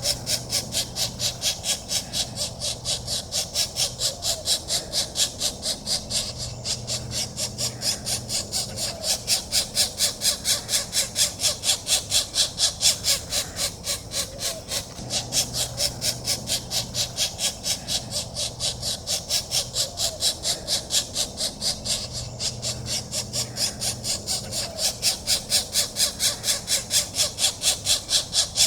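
Pileated woodpecker nestlings begging to be fed: a steady, rapid series of rasping calls, about three to four a second, that swells louder in the middle and again near the end.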